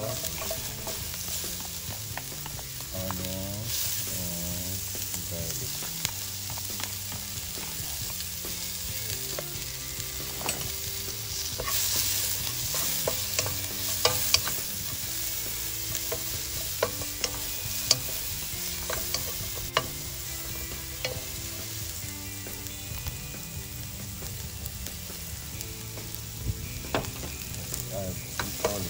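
Sliced red onions and garlic sizzling in hot oil in a wok, stirred with a wooden spatula, with occasional sharp ticks.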